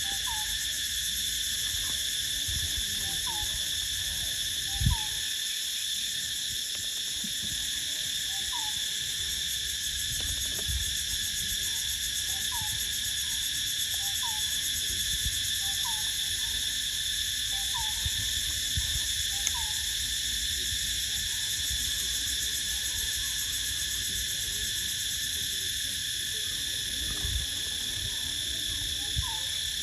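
Outdoor animal sounds: a steady high insect-like drone throughout, with a short rising call repeating every few seconds, and two low thumps, one about five seconds in and one near the end.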